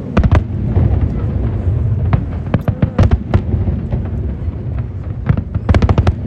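Fireworks display: aerial shells bursting in quick succession, sharp bangs over a continuous low rumble, with a rapid cluster of cracks near the end.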